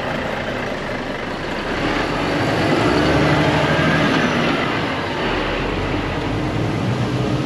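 A train passing on a nearby railway line: a steady rumble of rolling wagons that swells to a peak about three seconds in, then eases off.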